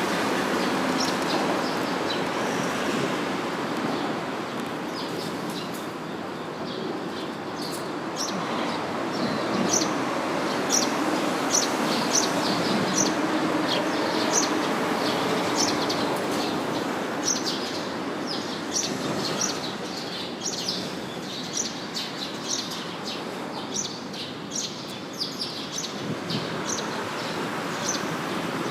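Small birds chirping, many short high chirps repeating every second or so, over a steady background rumble.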